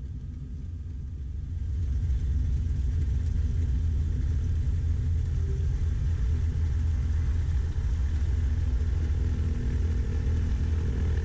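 Twin piston engines of a Beechcraft Baron B55 running at taxi power, a steady low rumble that grows louder about two seconds in.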